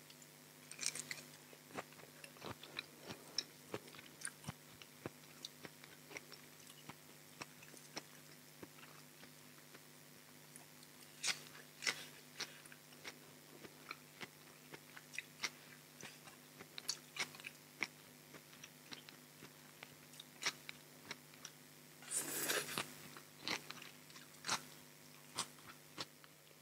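Close-miked eating: a person biting into and chewing raw shrimp salad, many small crisp clicks and wet mouth sounds. A longer noisy crunch comes about 22 seconds in.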